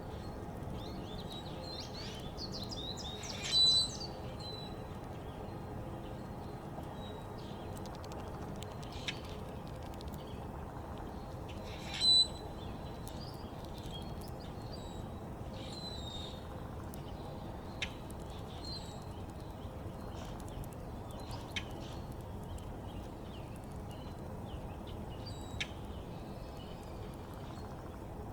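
Backyard songbirds chirping and calling. Many short, high chirps come throughout, with two much louder, sharp calls about three and a half seconds and twelve seconds in, over a steady low outdoor background hiss.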